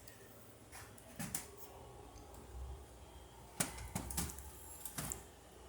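A few faint, scattered clicks and knocks, like small objects being handled, over a faint low rumble.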